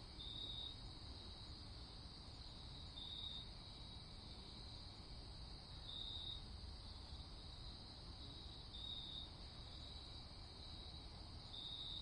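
Crickets chirping in a steady high-pitched chorus, with a louder short trill about every three seconds, over a faint low rumble.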